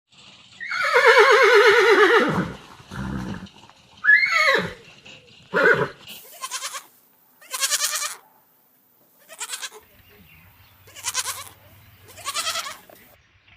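Goat bleating: one long, quavering bleat, followed by a string of shorter bleats.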